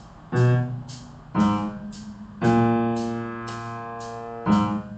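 Piano playing four low notes or chords in a slow, even rhythm, each struck and left to decay, the third held for about two seconds.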